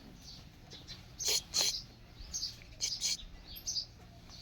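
Small birds chirping: a string of short, high chirps, the loudest pair about a second and a half in and another cluster around three seconds in.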